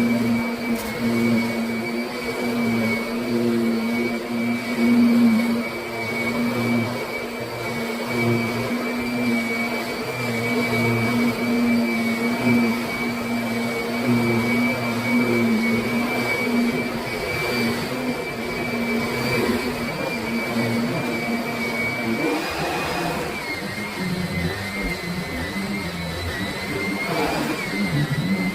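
Kirby Sentria upright vacuum cleaner running steadily with a constant motor whine. In the last several seconds its pitch dips and wavers a couple of times.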